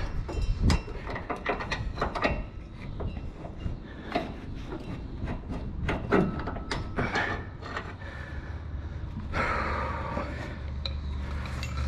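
Irregular metal clicks, knocks and clanks of hand tools and suspension parts being handled, with a longer scraping stretch near the end.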